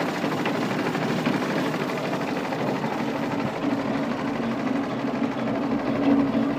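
Al-Ghazi tractor's diesel engine running steadily.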